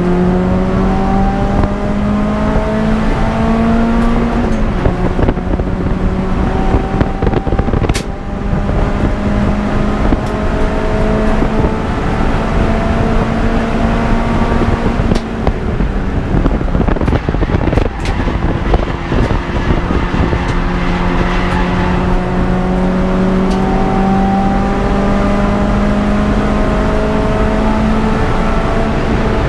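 Peugeot 206 GTi's four-cylinder engine pulling hard at racing speed. Its pitch climbs slowly and drops back twice at gear changes, over steady road and wind noise, with a couple of sharp knocks.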